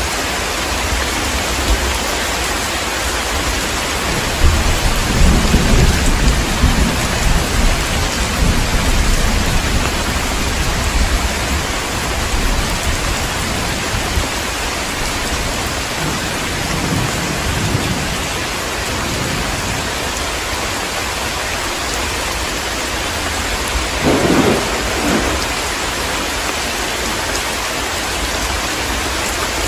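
Heavy rain falling steadily, with a long roll of thunder rumbling from about four seconds in until about twelve seconds, a fainter rumble a little later, and a short, louder clap of thunder near the end.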